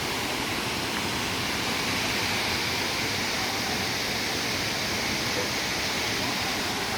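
Waterfall pouring steadily, a constant close rush of falling water.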